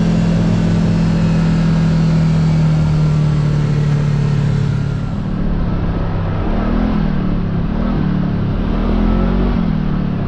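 Kawasaki KRX side-by-side's parallel-twin engine running at a steady pitch while driving. About halfway through, the engine note starts to rise and fall as the speed changes.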